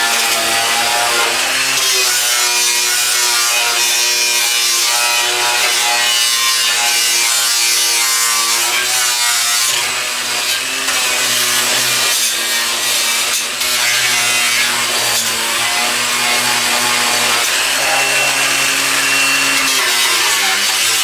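Cordless angle grinder grinding rusted sheet steel, a continuous abrasive grinding with a motor whine that shifts in pitch as the disc is loaded and eased off.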